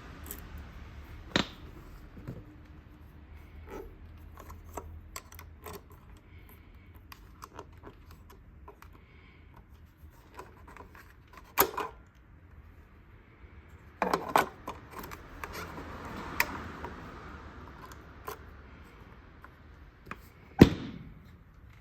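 Scattered small mechanical clicks with a few sharper knocks, the loudest near the end, and a faint low hum in the first few seconds.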